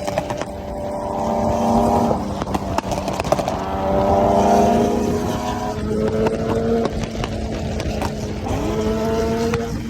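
Nissan 370Z's 3.7-litre V6 engine revving up and down through its exhaust, with repeated sharp pops and cracks from the exhaust.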